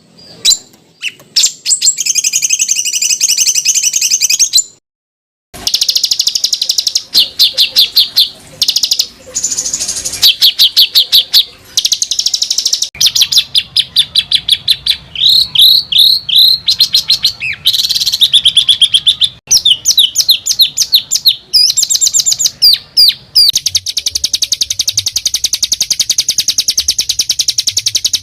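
Songbird song with rapid, tightly packed rolling trills and harsh chattering 'shot' phrases, repeated fast and high-pitched. The phrases are cut together, with a brief silent break about five seconds in.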